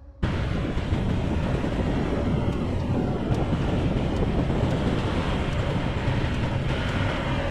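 Motorbike running on the move, with wind rushing over the microphone; the sound cuts in abruptly just after the start and then stays steady.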